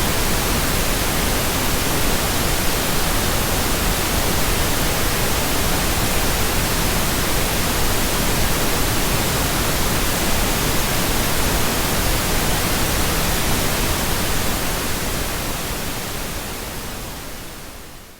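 Steady generated pink noise, an even hiss spread across all pitches, fading out over the last few seconds.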